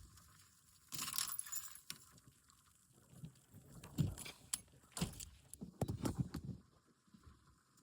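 A bunch of keys jangling, with irregular clicks and rattles in short bursts, the loudest about a second in and again around four to six seconds.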